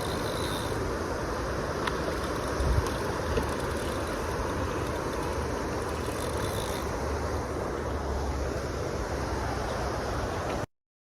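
Steady rushing noise with wind gusting on the microphone, cutting off abruptly to silence near the end.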